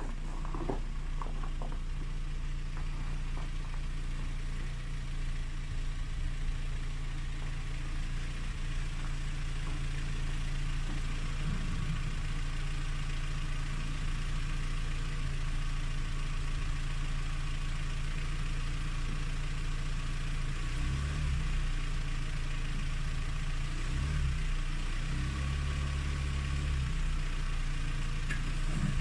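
An engine running steadily at a low hum, with a few heavier surges near the end.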